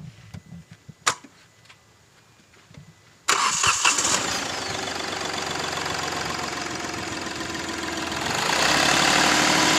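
A Hyundai Grand i10's 1.1-litre U2 three-cylinder diesel engine being push-button started. After a quiet stretch with a single click about a second in, the engine cranks and catches suddenly a little over three seconds in. It then settles into a steady idle that gets louder near the end.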